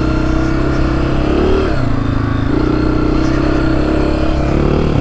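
Honda CRF250F's single-cylinder four-stroke engine running under throttle while the bike rides through sand. The engine note rises briefly about a second and a half in, drops back, then climbs again and holds steady.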